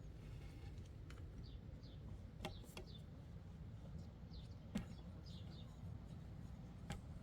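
Faint high bird chirps, short falling notes often in pairs, with a few sharp clicks or taps, the loudest about two-thirds of the way in, over a steady low rumble.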